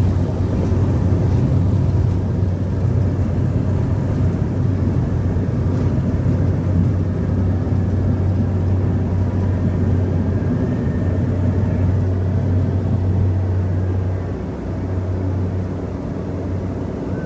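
Steady low engine drone of a vehicle running continuously, dropping a little in level about fourteen seconds in.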